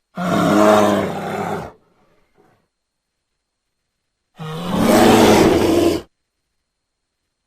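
American black bear vocalising: two long, pitched calls, each about a second and a half, separated by a few seconds of silence.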